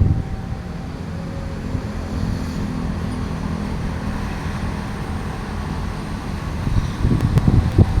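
Commuter train's steady low rumble, with wind buffeting the microphone near the end.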